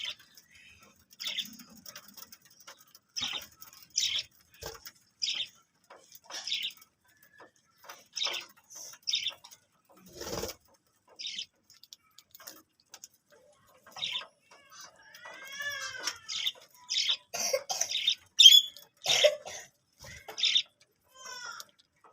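Budgerigars chirping: short, sharp, high chirps about once a second, with a brief warbling run in the middle, coming faster and louder near the end.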